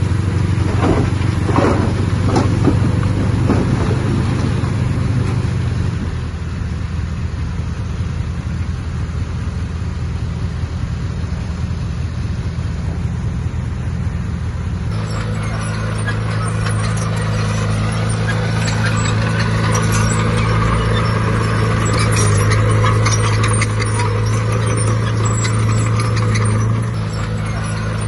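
Diesel engine of heavy earthmoving equipment running steadily. It eases off about six seconds in and comes back under heavier load about halfway through, with metallic clanking and rattling over it from then on.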